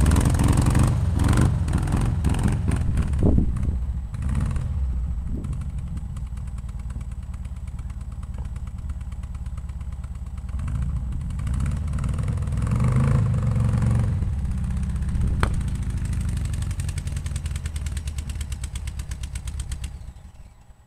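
The engine of a VW Bug rat rod running steadily, revving up for a few seconds in the middle. It cuts off shortly before the end.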